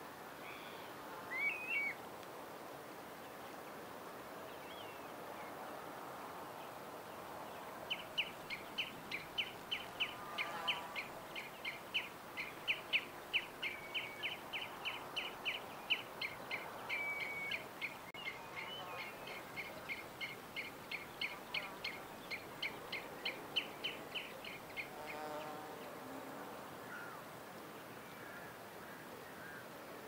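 A bird chirping over a faint steady outdoor background. A couple of short high chirps sound about a second and a half in, then from about eight seconds in a long run of rapid, evenly repeated high chirps goes on, a few per second, and stops about twenty-five seconds in.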